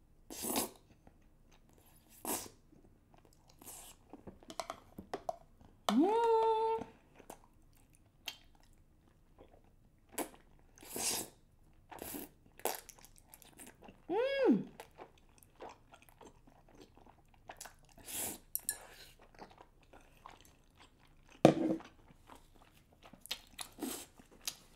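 Close-miked chewing of thick, chewy Korean rice cakes (tteokbokki) coated in sauce: irregular smacking and biting mouth sounds. A hummed "mm" comes about six seconds in, and a second rising-and-falling hum around fourteen seconds.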